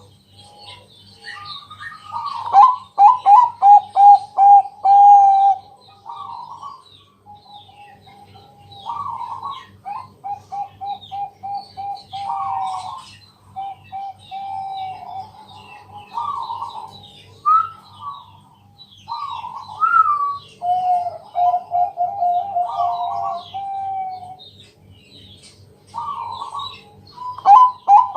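Zebra doves (perkutut) cooing, phrase after phrase: each song opens on a higher note and runs into a quick stuttering string of short coos. Faint higher chirps come and go above it, over a low steady hum.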